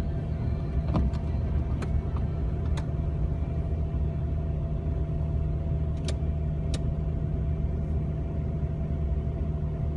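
Jeep Wrangler TJ driving through snow, heard from inside the cab: a steady engine and drivetrain hum, with a few brief sharp ticks.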